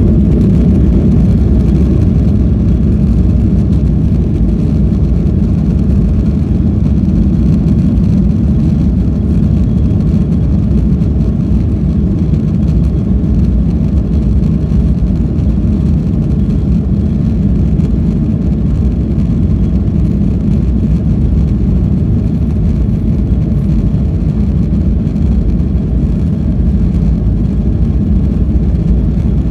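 Airliner at takeoff, its jet engines and airframe giving a steady low rumble that holds even throughout.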